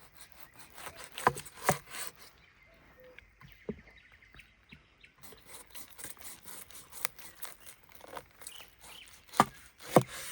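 Scattered sharp knocks and clicks, two louder pairs about a second in and near the end, with a few single ones between, over a faint outdoor background with light bird chirps.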